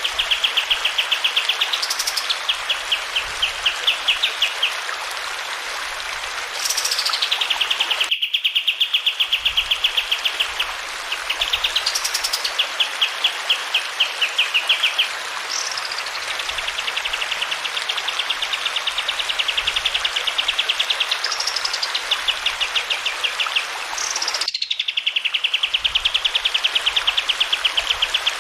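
Kapas tembak bird singing: long, fast trills held at one pitch, each broken by a quick whistle that sweeps up high and falls back, over a steady rush of flowing water. The song breaks off abruptly and restarts twice, as in a looped training recording.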